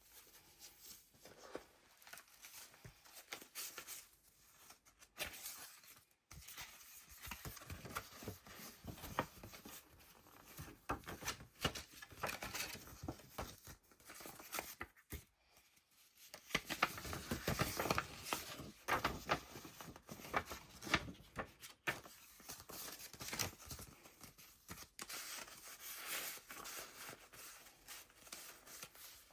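Pages of a handmade paper junk journal being turned and handled: irregular paper rustling and crinkling with small sharp taps, loudest a little past halfway.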